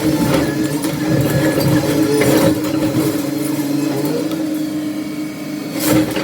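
Heavy demolition machine's diesel engine running steadily, with three short knocks of debris or the machine striking material, the loudest near the end.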